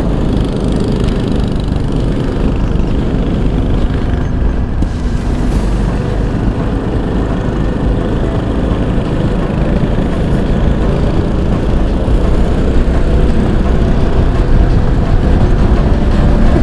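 Go-kart engine running at speed during a race lap, a steady loud rumble that grows slightly louder towards the end.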